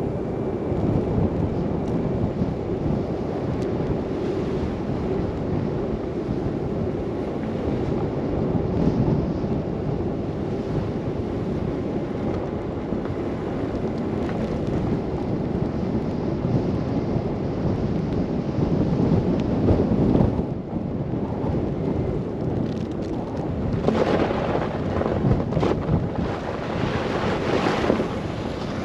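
Blizzard wind rushing over the microphone of a car driving on a snowy road, a steady noisy rush with louder gusts near the end.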